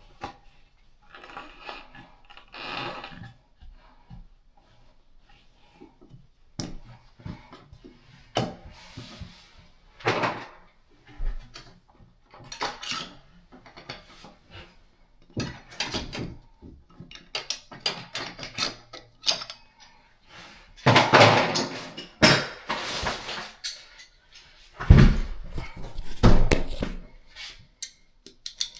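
Plumbing parts and tools being handled: irregular clicks, knocks and scrapes, with the loudest bursts of clatter about two-thirds of the way through and again near the end.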